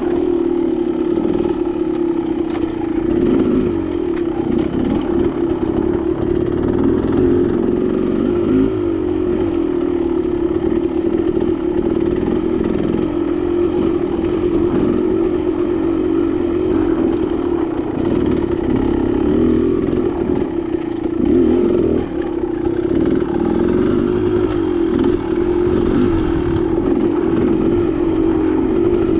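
Dirt bike engine running on a trail ride, its pitch rising and falling with the throttle, with some clattering from the bike over rough ground.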